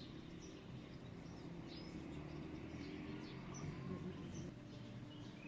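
Small birds chirping in short, scattered, high calls over a faint outdoor background with a low steady hum.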